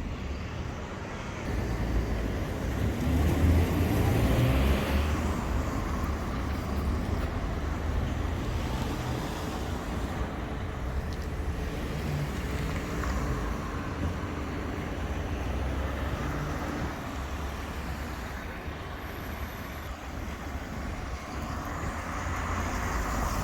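Town-centre road traffic: vehicles passing along the street, a steady rumble that swells about three to five seconds in as one goes by.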